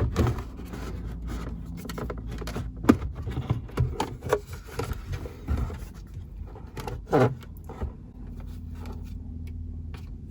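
Plastic clicks, knocks and scrapes from a BMW 3 Series instrument cluster being handled, with one sharper click about three seconds in, over a steady low hum.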